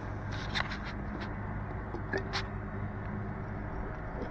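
A few light clicks and taps of small objects being handled, over a steady low hum.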